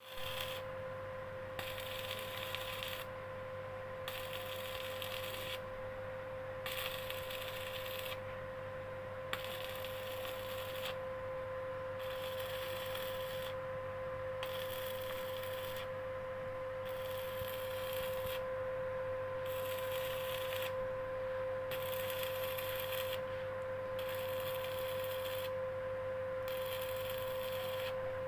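Steady machine hum with a constant high whine over it, with no speech.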